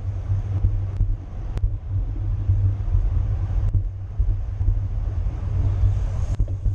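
Wind buffeting the microphone of a camera riding along in a bicycle race: a steady, loud low rumble, with a couple of faint clicks.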